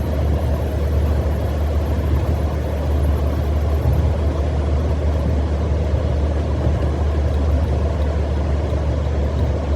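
Steady low rumble of a car cruising at highway speed, heard from inside the cabin: tyre and engine noise with no distinct events.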